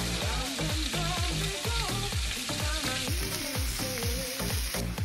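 Raw shrimp with sliced onion and red bell pepper sizzling in hot oil in a cast-iron skillet, just after being tipped into the pan; the sizzle cuts off near the end. Background music with a beat plays under it.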